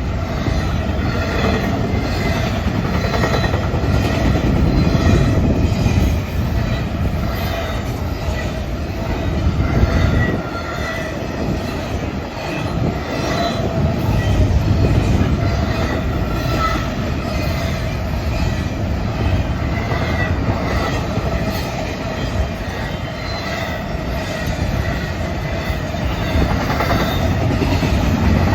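Norfolk Southern intermodal freight train rolling past, its cars and wheels on the rails making a loud, steady rumble.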